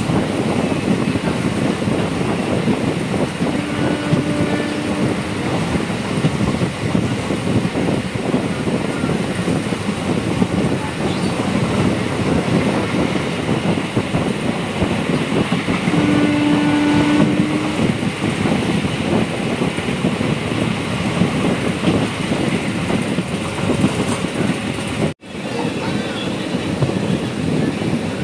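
Passenger express train running on the rails: a steady, dense rumble and rattle of the coaches. Two short pitched tones sound over it, about four and sixteen seconds in, and the sound cuts out for an instant near the end.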